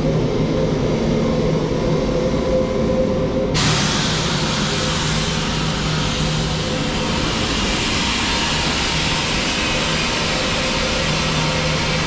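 Steady running noise inside a Frecciarossa ETR 500 high-speed train carriage, with a low hum. About three and a half seconds in, a brighter hiss sets in abruptly and carries on.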